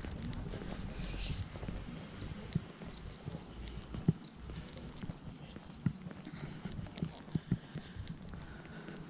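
Birds chirping over and over, short high chirps two or three a second, with footsteps on stone paving.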